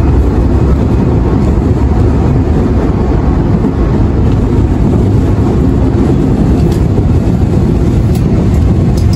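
Interior running noise of a Nankai 1000 series (50 subseries, set 1051F) electric train in motion: a steady, loud rumble of the wheels on the track, with a few faint clicks near the end.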